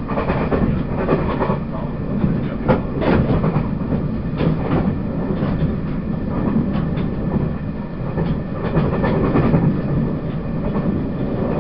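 Running noise of a Taiwan Railways E1000 push-pull Tze-Chiang express, heard on board while moving: a steady rumble with irregular clicks from the wheels on the track.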